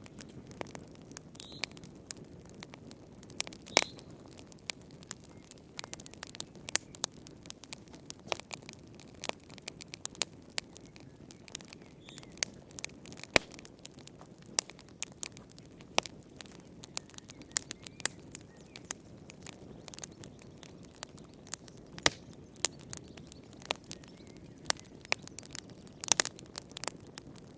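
Wood fire crackling in a fireplace: irregular sharp pops and snaps, several a second at times, over a low steady rush of the flames.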